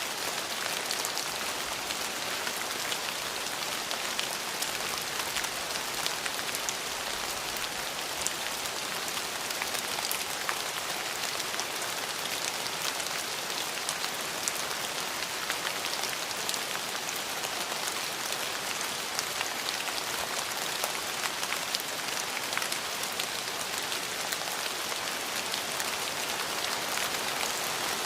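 Steady rain falling on a surface, a constant hiss with many fine drop ticks.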